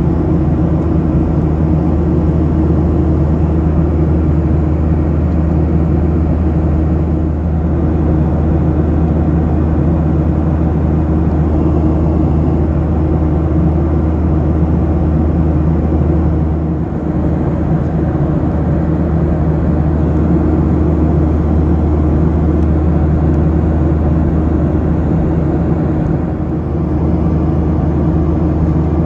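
Steady cabin drone of a Boeing 737-800 airliner in cruise: a low engine hum and airflow noise that holds level throughout.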